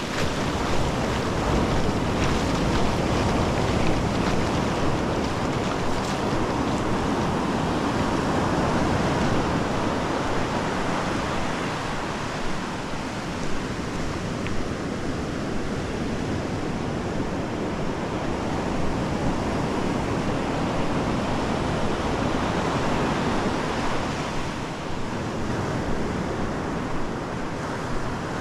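Ocean surf washing up on a beach, a continuous rush that swells and eases slowly, with wind rumbling on the microphone.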